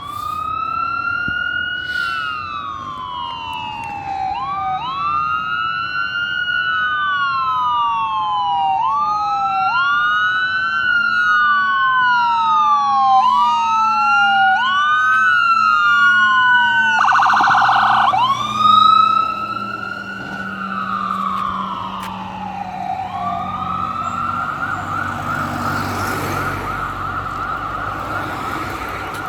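Fire engine's electronic siren wailing in rising-and-falling cycles about every two seconds. About two-thirds in it switches briefly to a rapid warble, the loudest moment, and near the end it changes to a fast yelp.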